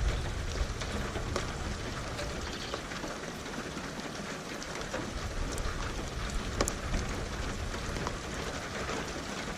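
Steady rain falling, with many individual drops ticking on a hard surface. A low rumble of distant thunder dies away in the first second or two.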